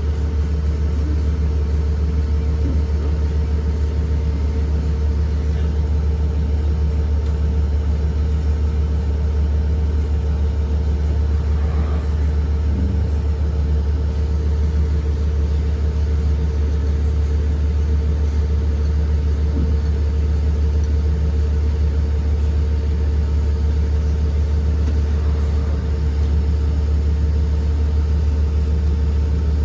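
A 2023 Blue Bird Vision school bus running steadily, a deep, even drone with a constant hum over it that neither rises nor falls.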